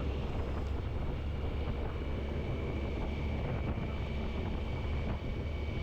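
Motorcycle engine running steadily while riding, a low rumble under wind rushing over the microphone.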